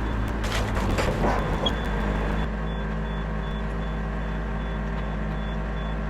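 Diesel engine of a Yanmar VIO50 mini excavator running steadily, with a few knocks in the first second and a half and a faint high beep pulsing on and off.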